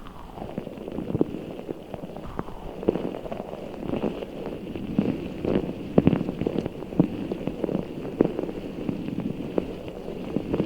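Giant orbeez-filled squishy ball being squeezed and kneaded by hand: a dense, irregular run of squishing crackles and small pops.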